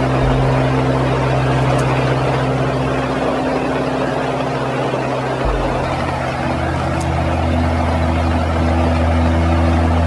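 Steady drone of aircraft engines: a low, even hum over a wide rushing noise, with the low tones shifting slightly about halfway through.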